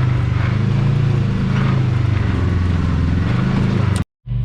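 Side-by-side UTV engine running at steady revs, a low even drone that cuts off suddenly near the end.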